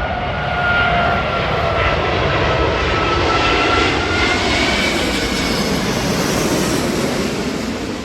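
Jet airliner's engines passing close by: a loud rush of engine noise with a high whine that shifts in pitch, swelling to a peak mid-way and fading near the end.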